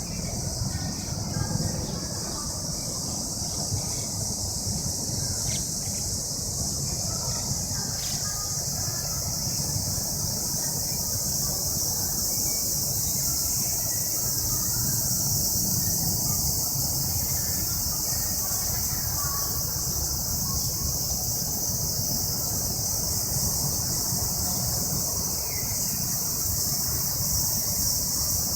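Steady high-pitched drone of cicadas singing, with a low rumble underneath.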